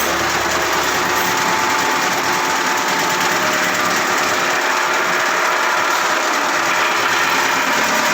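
Wood chipper machine running steadily, with a continuous even mechanical noise and no change in pace.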